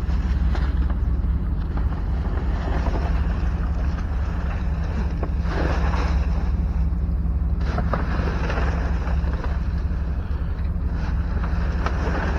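Steady low engine-like rumble, as of an idling vehicle or machinery, with a few faint rustles and knocks of things being handled.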